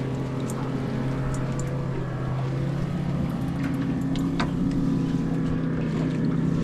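Outboard motor running with a steady hum, its note lifting slightly about halfway through, with a few light clicks over it.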